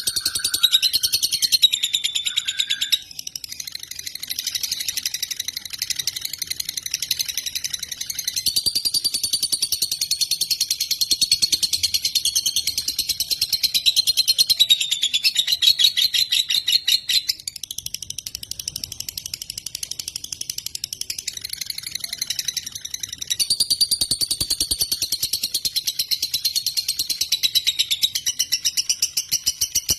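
Lovebird singing a long, high-pitched run of very fast chattering, going on almost without a break and easing off for a few seconds around the middle.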